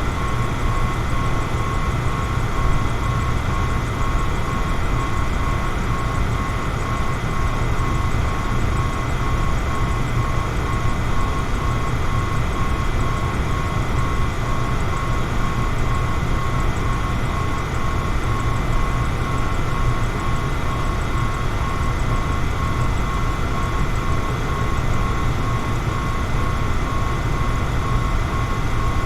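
Electric fan running steadily: an even rush of air with a strong low rumble and a faint steady whine from the motor.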